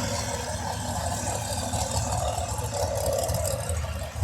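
A mud bog vehicle's V8 engine idling with a steady low rumble as it rolls up to the staging line; a spectator takes it for a Hemi.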